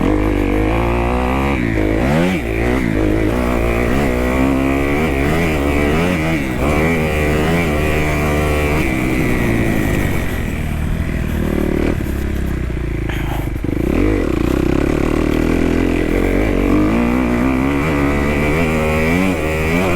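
2018 Kawasaki KX250F's single-cylinder four-stroke engine under way, revving up and falling back over and over as the throttle is worked and the gears are changed.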